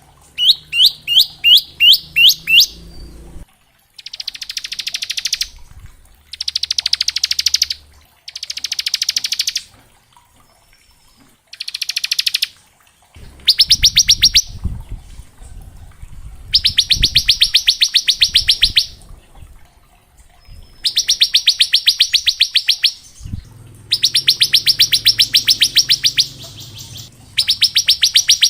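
Bar-winged prinia (ciblek) singing its 'ngebren' song: a quick series of sharp falling whistled notes at the start, then about eight loud bursts of very fast machine-gun-like trilling, each one to two and a half seconds long, with short pauses between.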